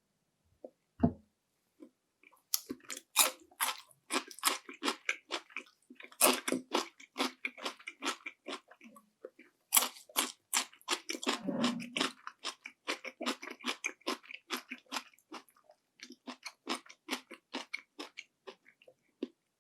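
Close-miked chewing of panko-breaded fried shrimp: rapid, crisp crunches of the fried coating, several a second, starting about two and a half seconds in, with a brief lull near the middle.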